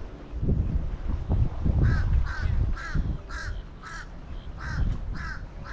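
A bird calling over and over in short repeated calls, about seven in a row at roughly two a second, starting about two seconds in, over a low uneven rumble.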